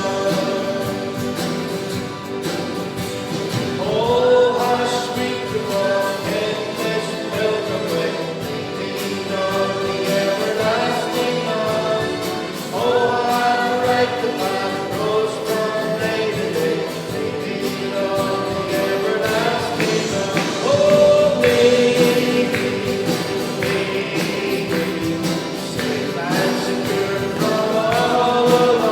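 Congregation or church choir singing a hymn with instrumental accompaniment.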